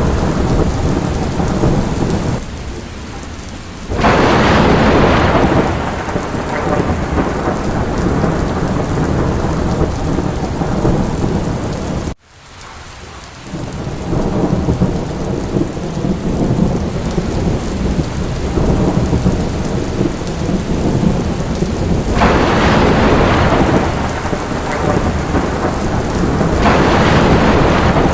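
Steady heavy rain with a deep low rumble, swelling in louder surges a few seconds in and again near the end. About twelve seconds in, the sound cuts out abruptly, then builds back over a second or two.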